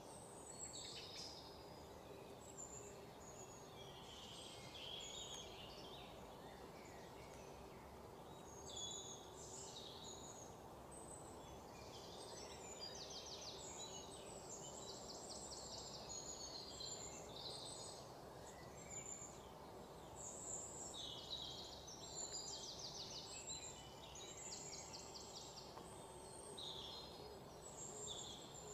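Small birds chirping in short calls scattered throughout, several of them quick rapid trills, over a steady low background hum.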